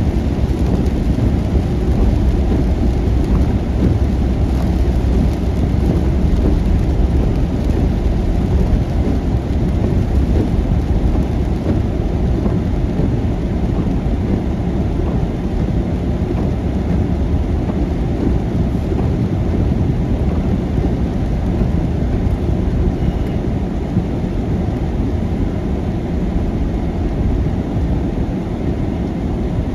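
Heavy rain on a moving car in a thunderstorm, heard as a steady, deep rushing rumble with no separate cracks or bangs.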